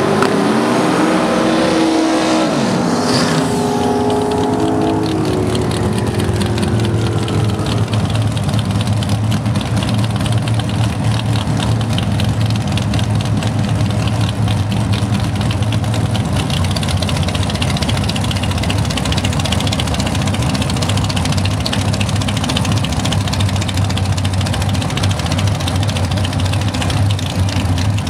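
Car engine dropping in pitch over the first few seconds as it comes off the throttle, then running at a steady low idle.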